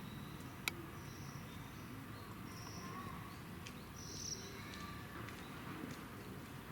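Faint high bird chirps, three or four short ones, over a steady low background rumble, with one sharp click about a second in.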